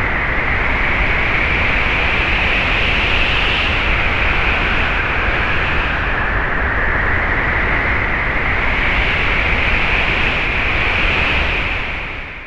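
Loud, steady rushing noise that fades out near the end.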